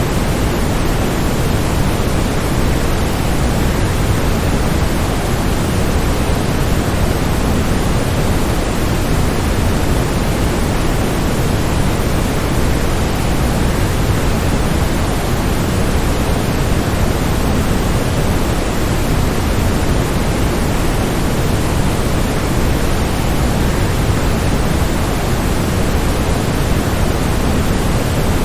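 Steady rush of a waterfall, an even wash of falling water, fullest in the low end, with no breaks or changes.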